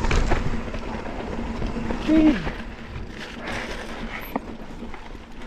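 Mountain bike riding over slickrock: tyre and frame rattle with wind buffeting the helmet microphone, loudest at the start. About two seconds in comes a short sound that falls in pitch, and a few small clicks follow later.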